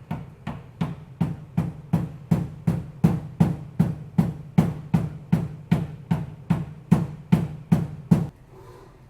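Steady, even hammer blows on the car's sheet-metal body panel, about two and a half a second, worked while the panel is under pull on the frame machine, over a steady low hum. The blows stop shortly before the end.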